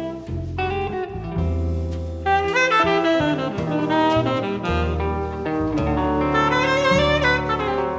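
Jazz band playing: a saxophone-like horn carries a melody that moves from note to note over low bass notes.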